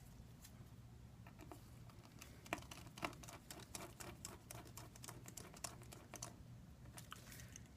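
Faint, irregular small clicks and ticks of a precision screwdriver and small metal parts being worked on inside an opened iPad 2, a tiny screw being driven back in, with a few sharper clicks about two and a half and three seconds in.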